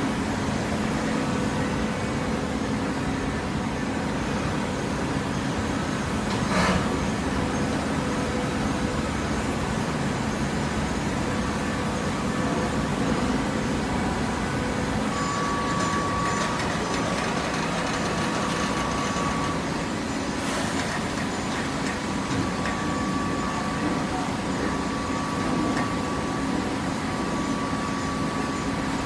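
Steady machinery hum, with faint steady tones, of a hydraulic baling press's power unit running, and two sharp clacks, one about 7 seconds in and one about 21 seconds in.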